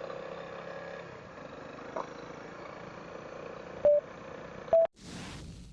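Honda CRF300L's single-cylinder engine idling steadily, with two short electronic beeps near the end, the loudest sounds, followed by a brief hiss that fades out.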